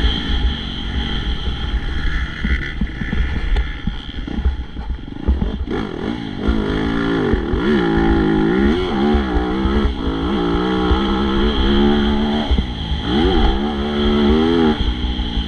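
Motocross bikes racing, their engines revving up and dropping back over and over as the riders open and close the throttle, with a low rumble throughout.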